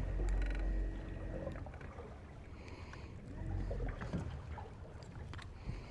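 Boat sounds on the water: a low rumble with a steady hum for the first second and a half, then quieter handling noise with a few faint knocks and a second, smaller rumble a little past the middle.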